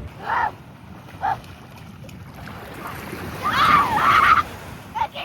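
Waves breaking and wind buffeting the microphone, with children's short high shouts; the loudest is a drawn-out squeal about three and a half seconds in.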